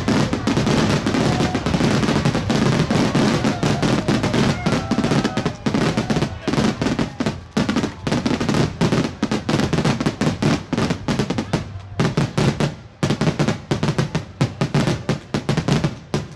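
Aerial firework shells bursting in a rapid barrage, bangs and cracks overlapping almost continuously, then thinning into separate bangs over the last few seconds before stopping near the end.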